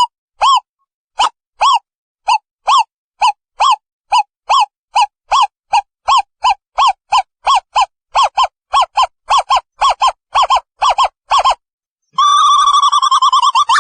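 Owl calling: a series of short pitched hoots, at first about two a second and gradually speeding up to about three a second, then running together about twelve seconds in into a fast, continuous trill. The gaps between hoots are dead silent.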